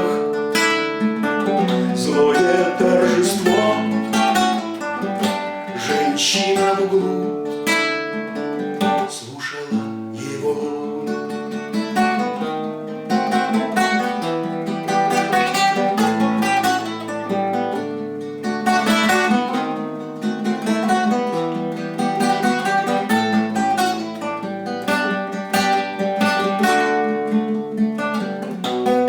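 Acoustic guitar played solo, a mix of strummed chords and plucked notes in a continuous instrumental passage that closes the song.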